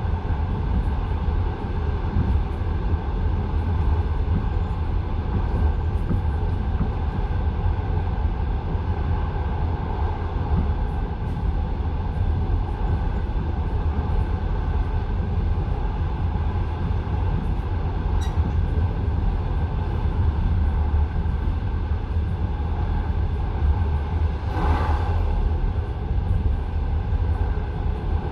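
Passenger train car running at speed, heard from inside the carriage: a steady low rumble with the clatter of wheels over rail joints. Near the end there is a brief hiss lasting about a second.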